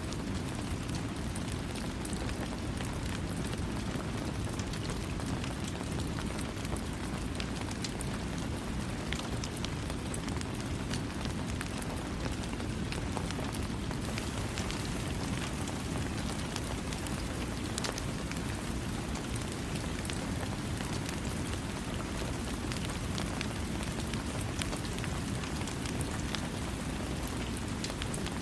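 Steady rain falling on a surface, a dense even patter with scattered individual drop ticks and no thunder.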